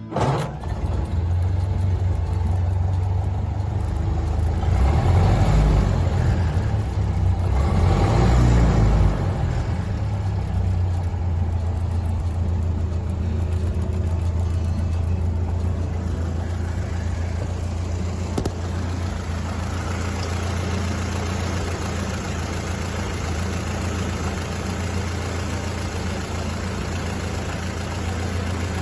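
Ford Model A's four-cylinder engine idling steadily, revved up twice about five and eight seconds in.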